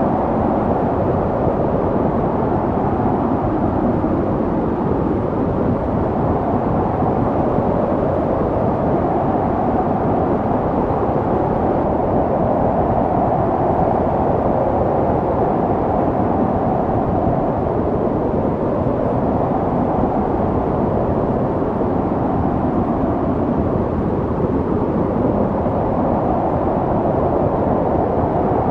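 Snowstorm wind blowing steadily, a dull low rushing that swells and eases slowly.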